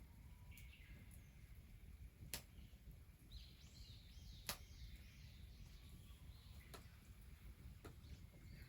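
Quiet outdoor ambience: faint, high bird chirping in the middle, and two sharp clicks, one a couple of seconds in and one about halfway.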